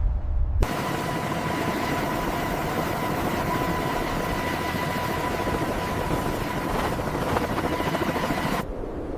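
Helicopter turbine and rotor noise: a steady rushing hiss with an even high whine through it, cutting in suddenly about half a second in and cutting off suddenly near the end.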